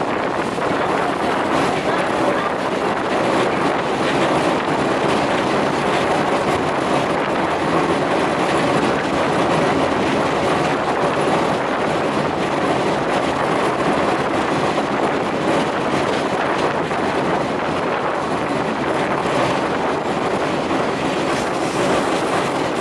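Steady running noise of the Shimanto Torokko train heard from aboard while it travels: its wheels clattering on the rails under a continuous rush of noise.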